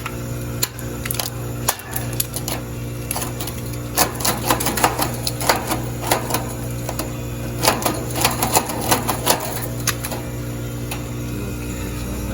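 Loosened ice being cracked and pulled off a heat pump's outdoor coil, a quick irregular run of clicks and cracks that is busiest in the middle. Under it the unit runs with a steady low hum.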